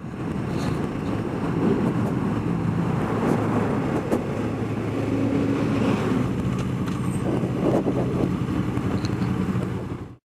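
Motorcycle engine running at a steady road speed, with wind noise, as heard from a camera on the bike or rider.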